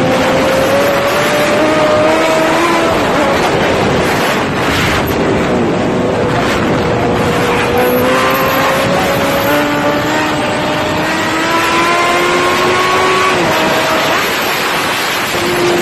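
A car engine running hard under acceleration, its pitch rising slowly and dropping back a couple of times, over heavy wind and road noise.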